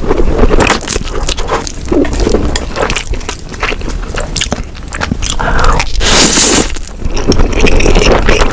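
Close-miked eating sounds from a mukbang of spicy instant noodles: chewing and biting, a dense run of wet clicks and crunches. A brief louder rushing burst comes about six seconds in.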